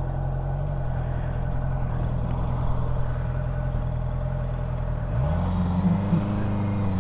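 Honda CB650F inline-four motorcycle engine running at a steady pitch, then its revs rise about five seconds in and hold higher as the bike speeds up.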